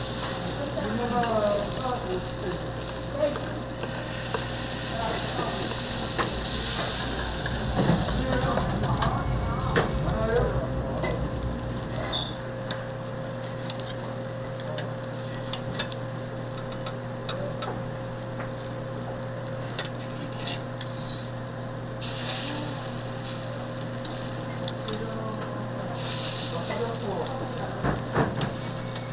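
Toast ingredients frying and sizzling on a flat griddle, with scattered sharp clicks and scrapes of cooking utensils. The sizzle is loudest at the start and swells again twice in the last third.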